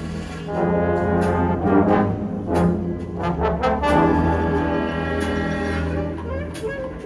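Winter winds ensemble playing a brass-led passage: sustained brass chords punctuated by percussion strikes roughly every second and a half.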